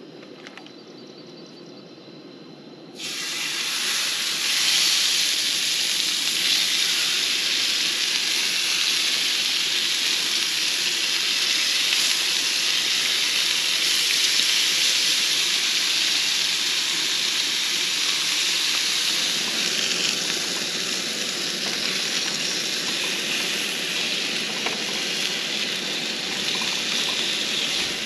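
Chicken pieces sizzling in hot oil in a cast-iron skillet on a camp stove. The sizzle starts suddenly about three seconds in and stays loud and steady.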